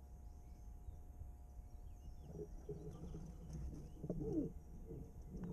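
Low cooing calls from a bird begin about two seconds in, with one falling note near the end; faint higher chirps of small birds sit above a steady low rumble.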